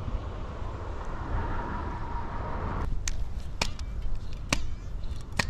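Spinning reel being wound in against a snagged stick, a whirring for about two seconds, followed by four sharp clicks over the next few seconds, over a steady low rumble.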